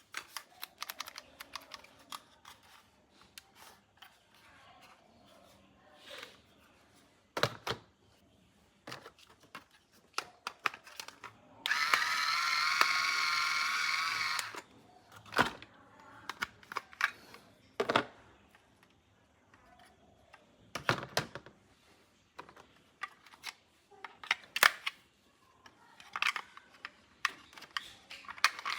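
Plastic toys and packaging being handled: scattered clicks, taps and crinkles. Partway through, a battery-powered toy gives out a steady electronic tone for about three seconds.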